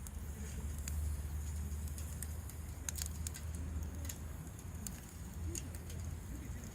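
Wood campfire crackling: scattered sharp pops and snaps at irregular intervals over a steady low rumble.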